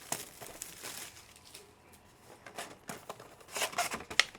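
Foil trading-card pack wrappers crinkling and tearing, with cards being handled, in short scattered rustles that bunch together near the end.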